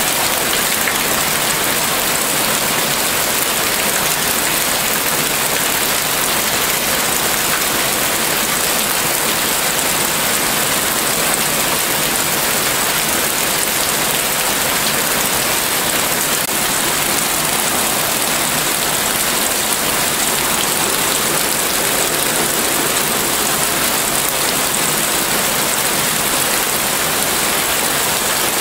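Heavy rain falling steadily on roof shingles and the ground: an even, unbroken hiss.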